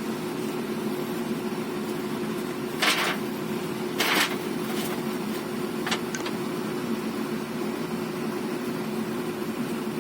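A heavy diesel engine running steadily with a low hum, joined by two short rushes of noise about three and four seconds in and a few light clicks a little later.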